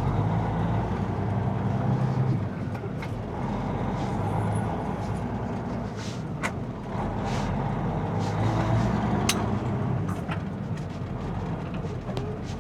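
Kenworth semi truck's diesel engine running, heard from inside the cab, its low drone swelling and easing, with a few light clicks.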